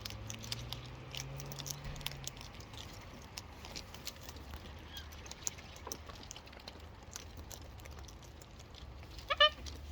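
Wild parrots pecking at food, a scatter of small beak and foot clicks and taps over a low steady hum, with a short loud parrot squawk near the end.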